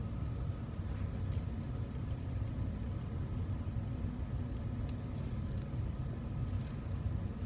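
Steady low rumble with a faint, even hum throughout, and a few faint light ticks.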